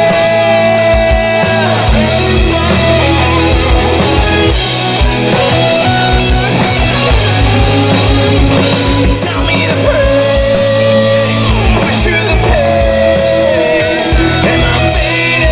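Live rock band playing loudly, with a steady drum beat and long held melody notes that bend in pitch.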